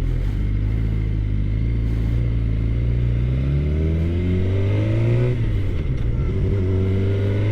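2013 Suzuki GSX-R 600's inline-four engine running under way: steady at first, then revving up for a few seconds, dropping sharply in pitch about five seconds in, and climbing again.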